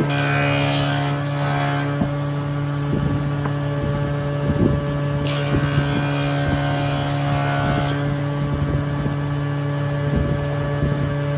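Electric power tool motor running with a steady hum. Two stretches of hissing come in, one at the start and one from about five to eight seconds in, and scattered light scrapes and clicks run between them, as of a tool working the workpiece.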